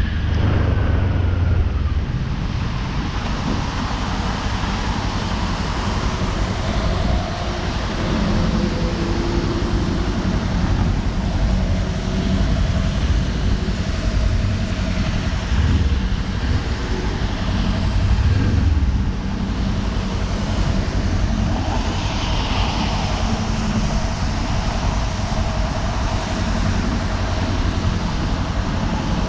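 Kawasaki Ninja 400's parallel-twin engine running on the move, its pitch shifting slowly, under a steady rush of wind and road noise.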